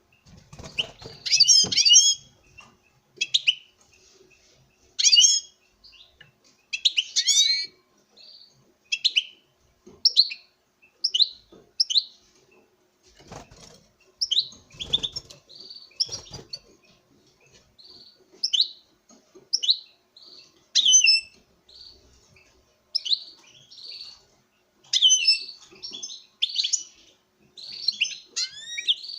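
European goldfinch male singing in short, quick twittering phrases and chirps, one every second or so, in courtship display to a female. A few low thuds come in between, near the start and about halfway through.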